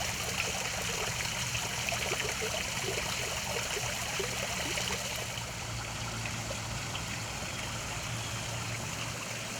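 Small creek trickling, a steady babble of running water with small bubbling flickers through the first half.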